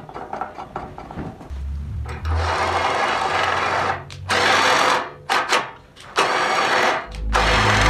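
Electric power tool running in loud bursts, starting about two seconds in and cutting off and restarting several times.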